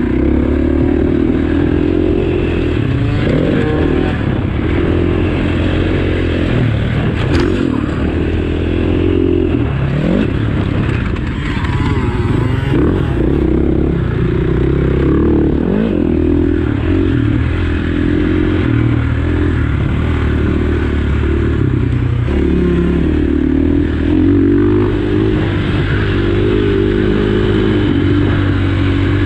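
Dirt bike engine being ridden, its pitch rising and falling over and over as the throttle opens and closes.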